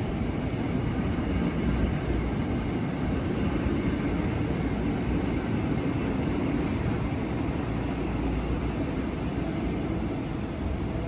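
Ex-Tokyo Metro 6000-series electric commuter train (KRL Commuter Line) running through the station, with a steady rumble of wheels on rails.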